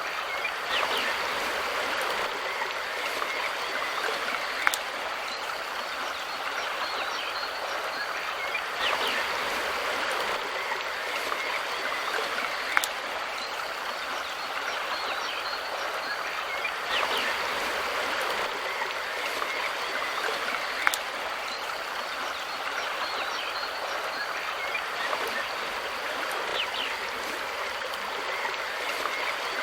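Mountain river flowing steadily over rocks, a continuous rushing of water. A short sharp click comes about every eight seconds, and the whole sound swells slightly on the same cycle.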